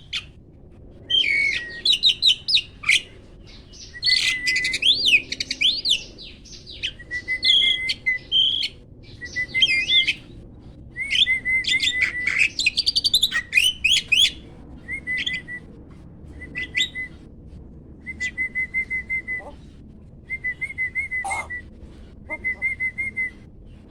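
Starling (jalak) song: loud, varied whistles and sweeping glides, then short chattering trills repeated every second or so.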